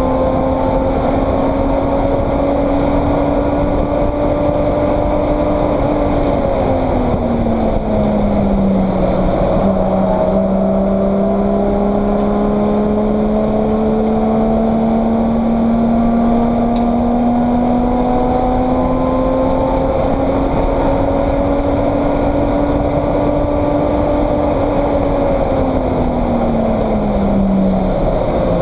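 Race car engine heard from inside the caged cockpit, pulling under load with the revs climbing slowly. The revs fall off twice, about six seconds in and again near the end, as the car slows, then climb again. Wind and road noise run underneath.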